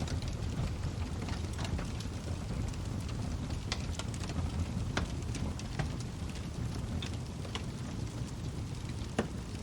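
Log fire burning: a steady low rumble with frequent sharp crackles and pops from the burning wood, one of the louder pops near the end.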